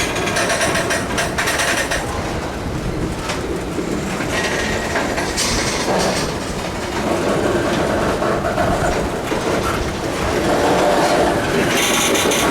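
Canadian Pacific freight train's cars rolling slowly past, with wheels clacking and clattering over the track and a high squeal now and then.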